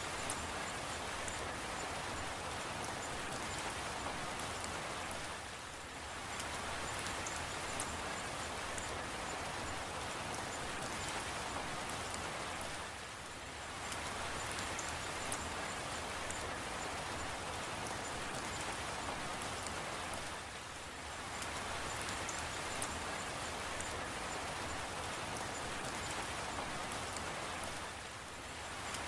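Steady rain falling: an even hiss with scattered drop ticks, easing off briefly about every seven and a half seconds.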